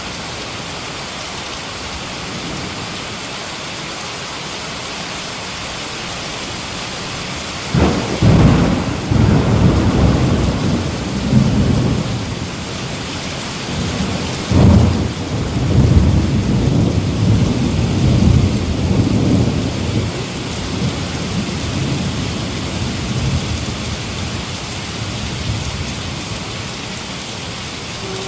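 Heavy rain falling steadily with two claps of thunder: a sudden crack about eight seconds in that rolls on for several seconds, and a second sharp crack about fifteen seconds in that rumbles on for about five seconds before fading back to the rain.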